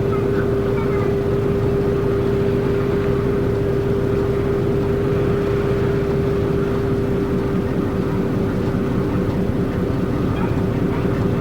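Route bus diesel engine running, heard from inside the passenger cabin as a steady low rumble with a constant hum a little under 500 Hz over it.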